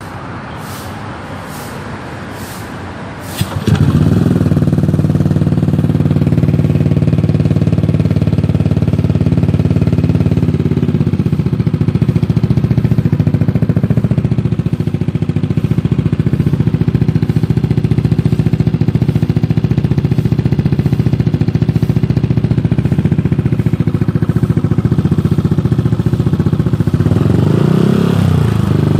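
A vehicle engine cranks for about three and a half seconds, catches with a sudden jump in loudness, then idles steadily. It revs up briefly near the end.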